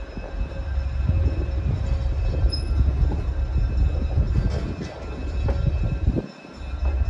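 Train cars rolling slowly along the track, a steady low rumble with light clatter, as the train is eased into the platform. The sound dips out briefly about six seconds in.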